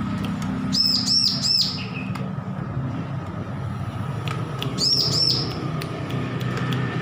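Bar-winged prinia (ciblek) singing in short bursts of high arched chirps, three quick notes about a second in and two more around five seconds in. It is a young bird just off hand-feeding, practising its song.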